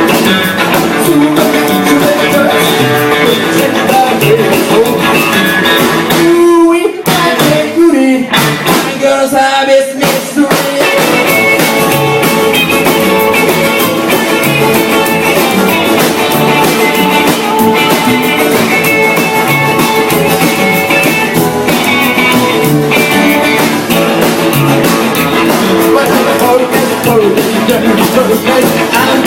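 A loud live rock and roll band with guitars and drums. The band thins out briefly about seven seconds in, then comes back in full.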